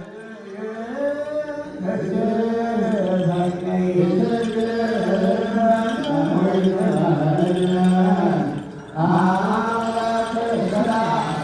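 Slow, melismatic Ethiopian Orthodox liturgical chant, a voice drawing out long wavering notes with one brief breath pause about nine seconds in.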